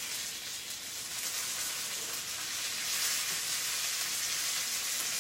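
Breakfast sausage sizzling steadily in a hot skillet on the stove, a continuous high, even hiss of fat frying.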